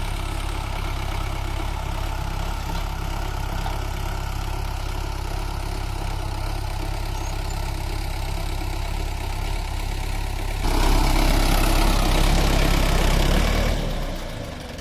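Sonalika 750 tractor's diesel engine running steadily, pulling a cultivator through the soil. About eleven seconds in, a louder rushing noise comes in over the engine for about three seconds, then fades near the end.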